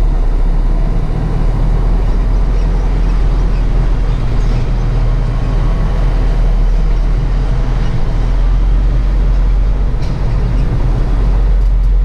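Truck engine running steadily, a loud, low, even drone.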